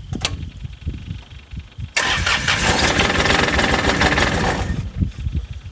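Yanmar diesel engine of a John Deere F935 mower. A sharp click is followed by low, uneven running; about two seconds in it suddenly gets loud and rough for about three seconds, then drops back. The engine has a fuel knock and is over-fuelling with heavy black smoke, which the owner suspects comes from injectors spraying a straight stream of fuel instead of atomising it.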